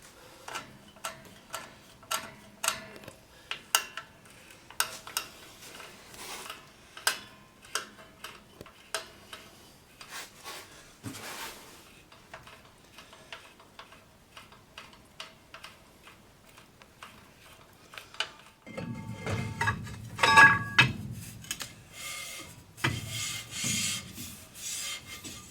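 Front drum brake being adjusted from the back of the backing plate: a long series of separate clicks from the star-wheel adjuster being turned. From a little over two-thirds of the way in, a louder rasping rub with some metallic ringing as the brake drum turns against the shoes, set for slight contact.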